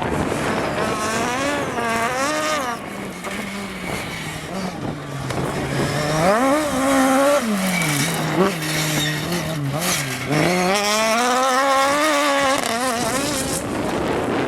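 Rally car engine at full throttle on a stage, its note climbing hard and then dropping back several times as it changes gear and brakes, loudest between about six and thirteen seconds in.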